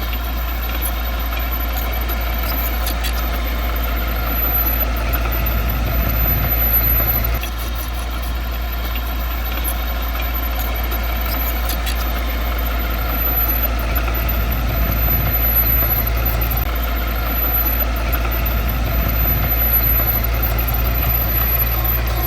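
Heavy diesel engine of earthmoving machinery running steadily, dipping slightly in level about seven seconds in.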